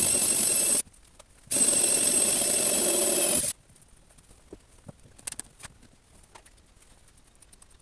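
A power tool's motor running with a steady high whine in two runs: it stops briefly about a second in, runs again for about two seconds, then cuts off. Faint clicks and taps of handling follow.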